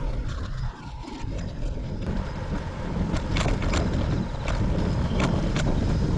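Strong wind buffeting the microphone during a bicycle ride: a loud, steady low rumble. A handful of sharp clicks come in the second half.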